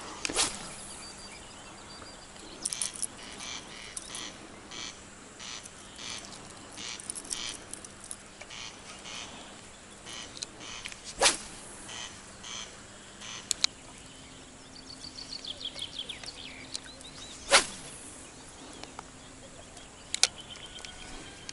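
Outdoor birdsong: a long run of short, dry calls at about two a second, then a brief chirping song. Several sharp clicks or knocks cut through, the loudest near the end.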